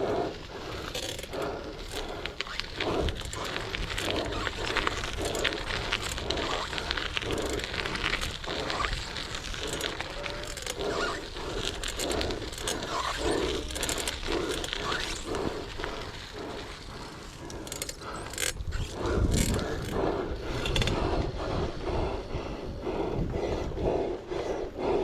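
Dirt-jump bike being ridden on dirt: tyre, chain and frame noise with many small clicks and scrapes, and a rush of low noise about nineteen seconds in.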